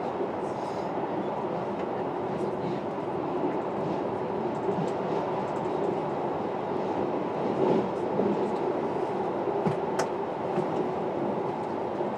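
Train running through a tunnel, a steady rumble of wheels on rail heard from the driver's cab, with a few faint ticks and one sharp click near the end.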